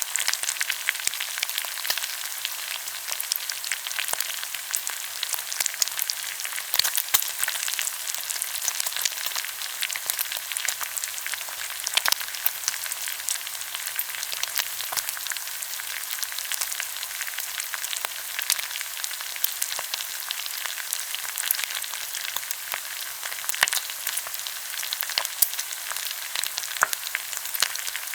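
Pork belly sizzling on a hot grill, a steady frying hiss with frequent sharp pops and crackles of spitting fat.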